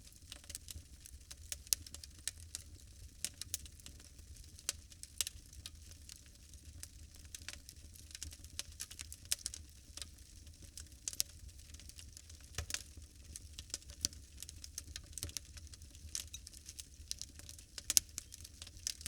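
Wood fire crackling: irregular sharp pops and snaps, a few louder ones such as about a second and a half in and near the end, over a faint low rumble.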